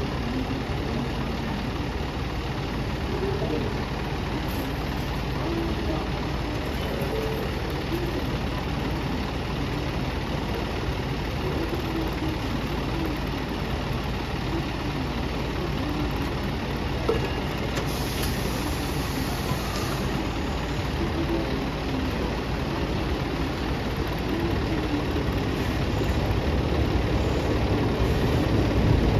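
City bus engine idling steadily, growing louder near the end.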